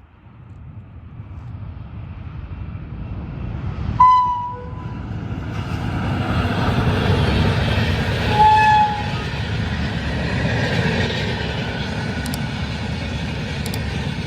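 Indian Railways train approaching and running past, its rumble building up over the first few seconds and staying steady. The locomotive horn gives two short blasts, about 4 and 8.5 seconds in, the second lower in pitch.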